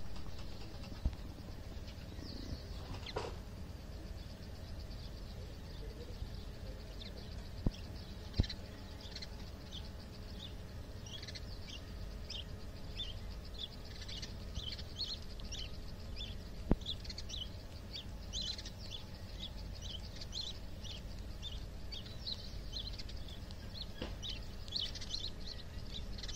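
Small birds chirping, many short high calls in quick runs that grow busier after the first third, over a steady low rumble. A few sharp clicks stand out, two close together about a third of the way in and one past the middle.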